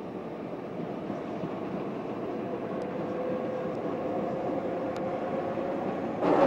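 Docklands Light Railway train running along the elevated track: a steady rumble with a faint whine from the motors, slowly growing louder as it comes by. Just before the end the sound suddenly gets louder.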